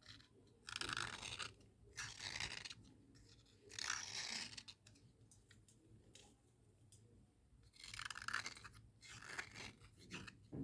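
Cubical slate pencils being dry-scraped and rubbed in five short, gritty strokes separated by quiet pauses.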